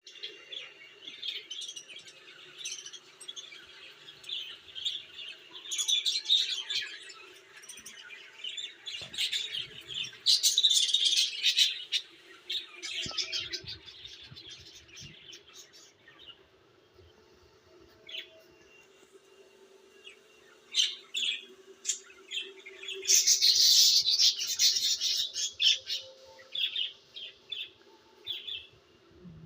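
Small birds chirping and twittering in irregular bursts, with busier flurries about ten seconds in and again near twenty-four seconds, over a faint steady hum.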